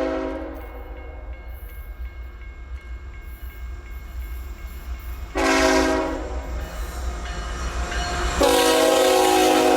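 Freight locomotive air horn sounding as the train approaches: a blast that cuts off just after the start, a short blast about halfway through, and a long blast beginning near the end, over a low steady rumble.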